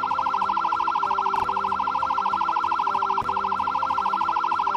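Ambulance siren in a rapid warble, trilling quickly between two high tones about a dozen times a second. This is the pattern ambulances use in a traffic jam, when cars are not pulling over to the right.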